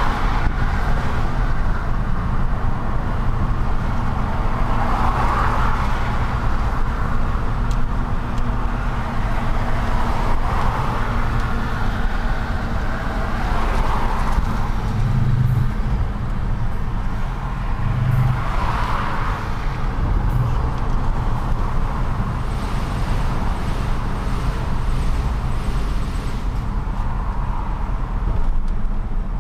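A truck on the move in city traffic: a steady low engine rumble and road noise, with swells of passing traffic every few seconds.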